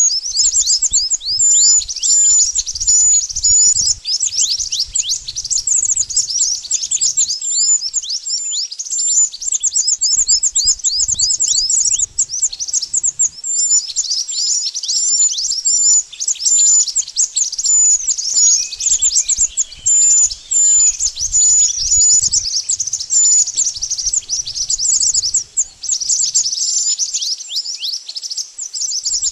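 Birds known in Indonesian as 'mantenan' calling: a dense, nonstop stream of quick high chirps, each sweeping downward, with short flat high notes mixed in.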